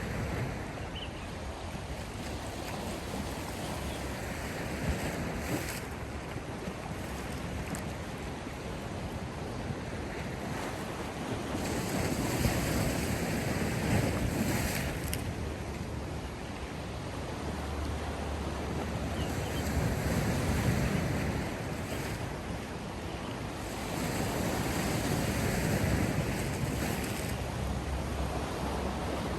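Sea waves washing ashore, the surf swelling louder and fading back every several seconds.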